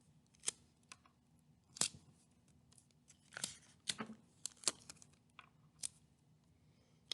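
Paper-craft handling noises: scattered short crackles and clicks as a paper cutout is taped onto a popsicle stick.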